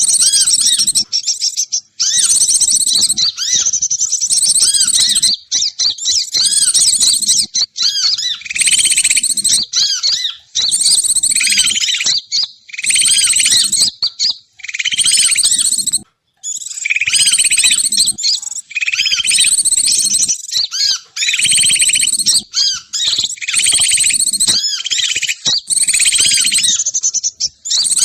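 Bird lure call (suara pikat) for trapping: loud, dense, high-pitched chirping and twittering. It comes in phrases about one to two seconds long, broken by short pauses, and repeats over and over.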